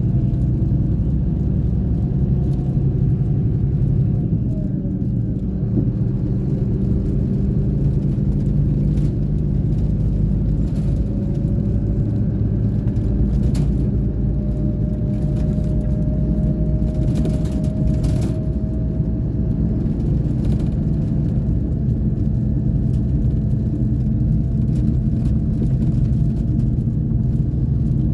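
Scania K420 bus engine running steadily with a low drone, and a faint whine that slowly rises in pitch through the middle. A few brief clicks or rattles come near the middle.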